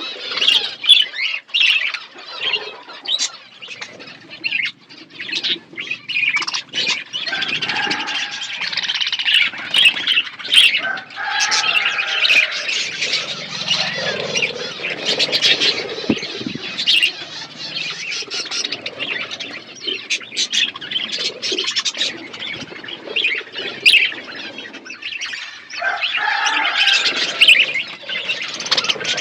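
Budgerigars chattering and chirping continuously, a dense warbling mixed with squawks and many short sharp clicks.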